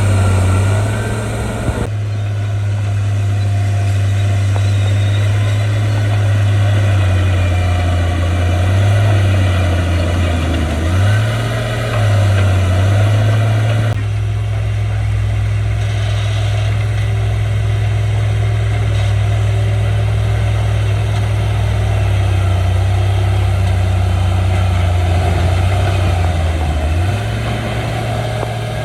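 Bulldozer's diesel engine running steadily under work, its deep hum dipping in pitch briefly a few times as the load changes.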